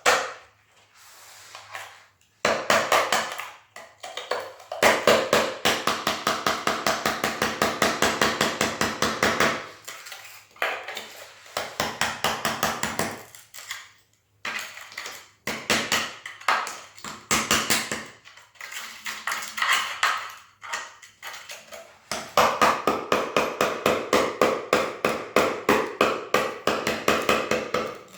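Hammer striking a chisel in rapid runs of taps, about five a second, each with a short metallic ring, with brief pauses between the runs: the chisel is chipping out and working under a cracked ceramic floor tile.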